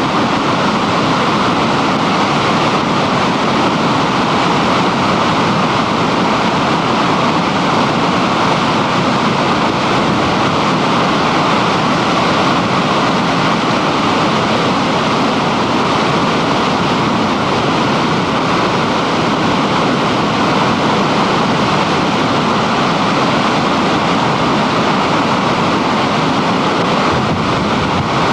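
North Fork Matilija Creek in flood: a big flow of floodwater rushing in a loud, steady roar.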